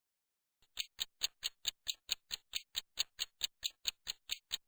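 Clock-style ticking sound effect counting off a speaking pause: short, sharp ticks at an even rate of about four to five a second, starting about half a second in.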